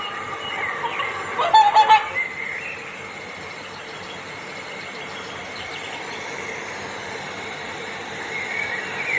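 Swans calling: a few short honking calls in the first two seconds, then a steady background hiss with faint calls, and calling again near the end.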